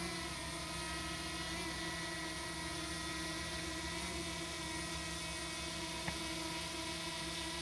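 DJI quadcopter drone's propellers whining steadily, several even tones held at a constant pitch.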